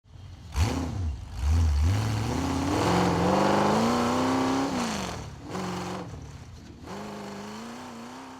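An engine revving. It starts about half a second in and climbs in pitch over about four seconds, then drops off, and is revved twice more in shorter blips.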